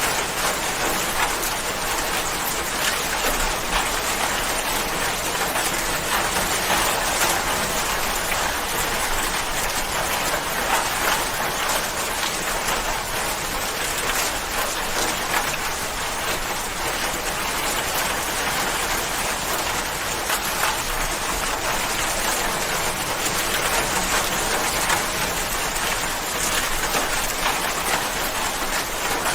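Steady rain falling, a dense even patter of drops on a surface with no let-up.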